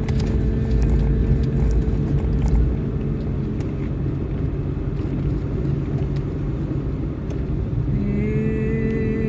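Steady low droning tones over a deep rumble, with a few light clicks; a new set of held tones, some of them higher, comes in about eight seconds in.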